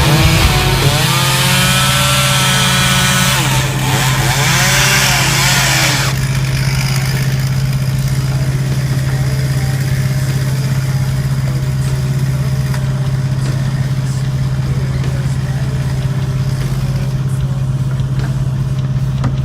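An engine running steadily at a constant speed, with a strong low hum. For the first six seconds a louder sound with sweeping, shifting pitches lies over it, then stops.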